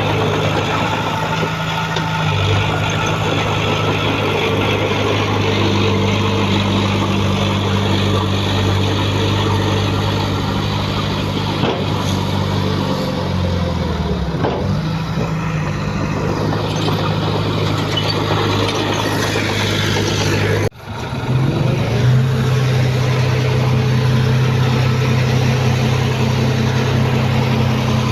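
Heavy earthmoving machinery's diesel engine running steadily under load. Its pitch sags briefly about halfway through, then there is a sudden short break about two-thirds of the way in before it runs on.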